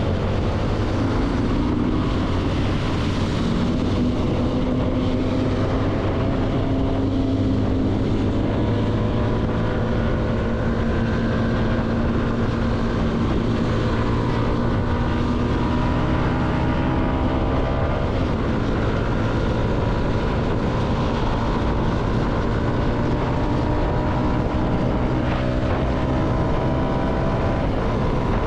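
CFMoto motorcycle engine running while riding, its pitch rising and falling gradually with engine speed, over a steady rush of wind noise.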